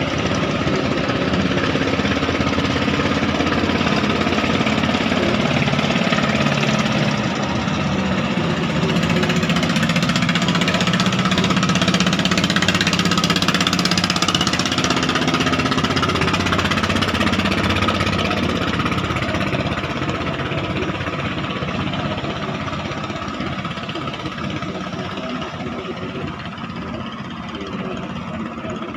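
Klotok river boat's diesel engine chugging with a rapid, even knock. It is strongest through the middle and fades gradually over the last third.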